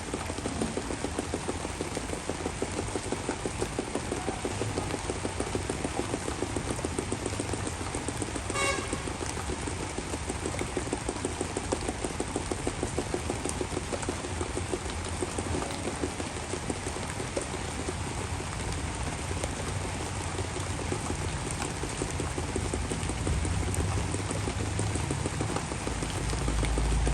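Heavy rain pouring steadily in a tropical downpour. About nine seconds in there is a brief high-pitched tone, and a low rumble swells near the end.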